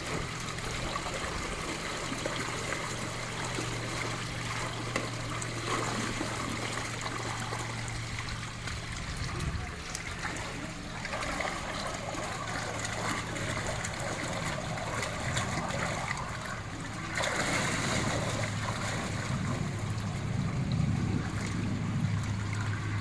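Water running and trickling steadily from a leaking underground water pipe, over a low steady hum.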